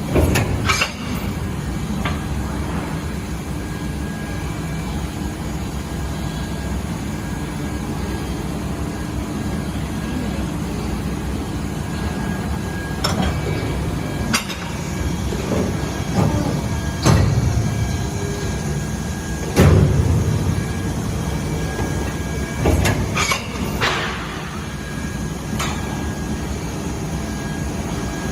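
Two-colour injection moulding machine running: a steady mechanical drone broken by several sudden clunks and surges as it cycles, the loudest about twenty seconds in.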